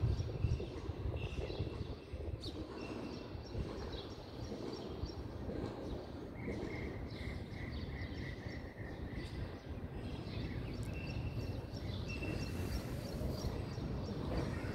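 Birds chirping in short high calls, with a run of about eight quick, evenly spaced notes in the middle, over a steady low background rumble.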